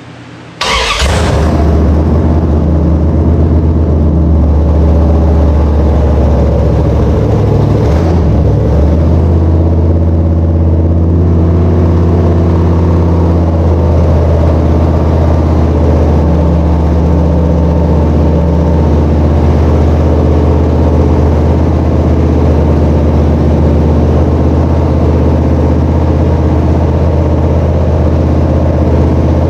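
Freshly installed small-block Mopar 318 V8 in a dirt-track race car firing up about half a second in on its first start, then running loud and steady for break-in.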